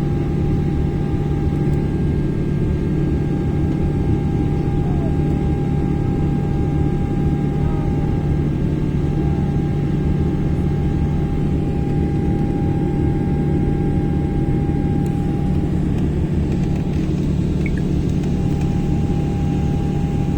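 Boeing 777-300 airliner heard from inside the passenger cabin: a steady, loud drone of jet engines and airflow, with a steady high whine running over it that drops out briefly a few times.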